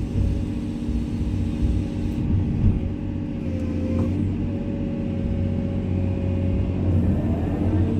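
Komatsu excavator's diesel engine running steadily with a constant whine over it. Near the end a tone sweeps up and back down as the machine works.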